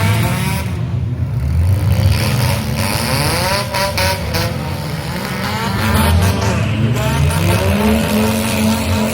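Several demolition derby car engines running and revving, their pitch rising and falling.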